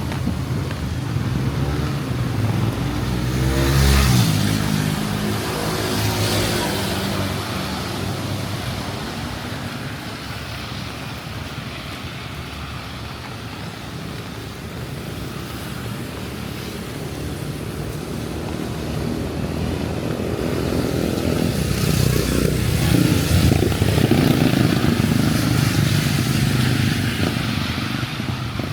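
Motor vehicles passing on a wet street in the rain, over a steady hiss of rain and tyres. One engine passes close about four seconds in, its pitch dropping as it goes by; after a quieter stretch another vehicle draws near and is loudest in the last third.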